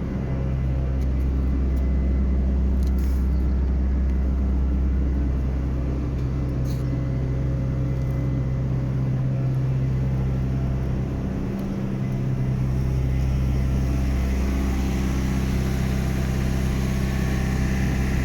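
Heavy engine idling steadily, a low even hum with a brief dip in level about twelve seconds in.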